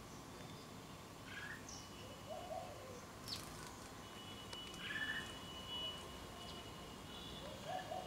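Birds calling: scattered short chirps, with lower notes about two and a half seconds in and again near the end.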